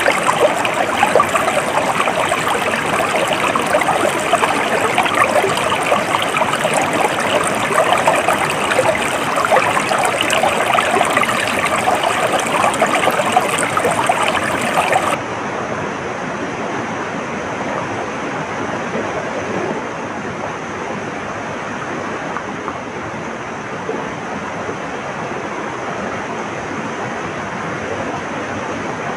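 A stream of flowing water running and splashing. About halfway through it cuts abruptly to a softer, steadier rush of water.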